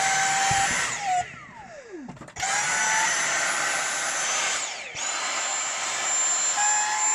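Dyson V6 cordless vacuum cleaner's motor running with a high whine. About a second in it is switched off and winds down in a falling whine. It starts again a second or so later, stops briefly near the middle, and runs on.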